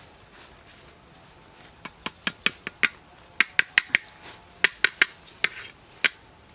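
A run of about fifteen sharp, irregular taps or knocks, starting about two seconds in and stopping about a second before the end.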